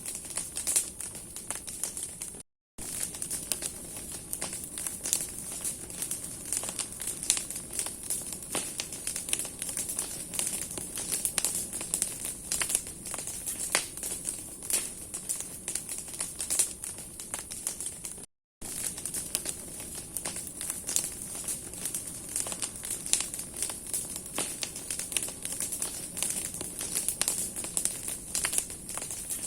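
Large bonfire of burning branches crackling and popping steadily, with dense irregular snaps of burning wood over a hiss of flame. The sound cuts out abruptly for a moment twice.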